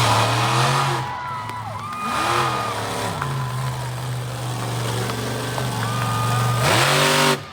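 Monster truck engine revving in repeated throttle bursts, its pitch rising and falling several times, with the loudest surge near the end before it drops off suddenly.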